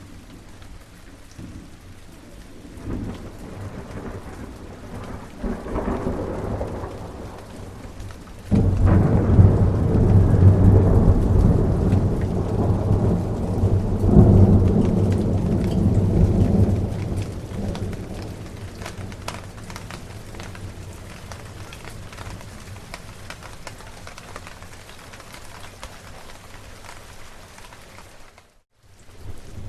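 Steady rain with rolling thunder. A couple of soft rumbles come early. About a third of the way in a loud peal starts suddenly, swells again a few seconds later, then dies away under the rain. Near the end the sound cuts out for a moment.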